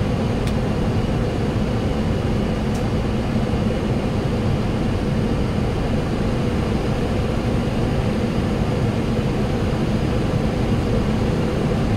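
Steady flight-deck noise of a Boeing 737-800 on final approach: rushing airflow and engine noise, with a constant low hum.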